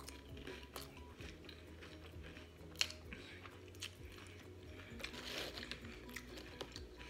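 Close-up eating of cheesy ground-beef nachos: tortilla chips crunching between the teeth and wet chewing, with scattered sharp crunches, the loudest about three seconds in. Soft background music underneath.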